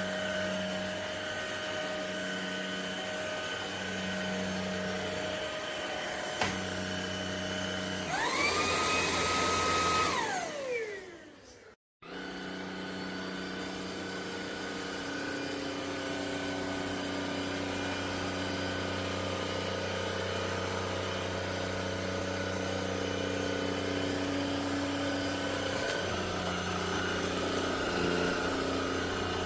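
Cordless stick vacuum cleaner running with a steady motor hum. About eight seconds in, its motor whine rises sharply in pitch, holds for a couple of seconds, then winds down and stops; after a moment of silence a vacuum is heard running steadily again.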